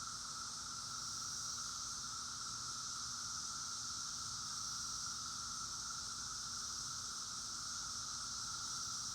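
Steady, unbroken chorus of many 17-year periodical cicadas, a continuous drone that does not rise or fall.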